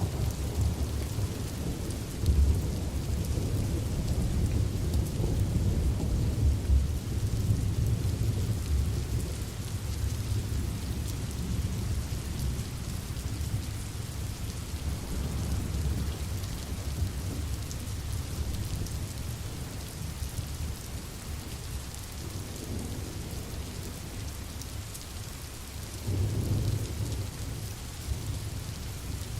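Steady rain ambience, an even hiss of falling rain over a low rumble. The rumble is heaviest through the first ten seconds or so and swells again briefly near the end.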